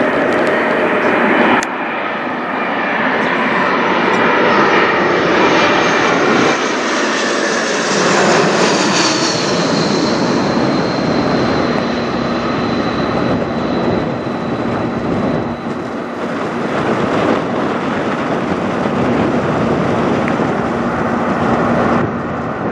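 Airbus A220-300's Pratt & Whitney PW1500G geared turbofans passing overhead: a loud jet roar with a whine that builds, peaks about eight seconds in, then drops in pitch as the aircraft goes by, leaving a steady whine and rumble.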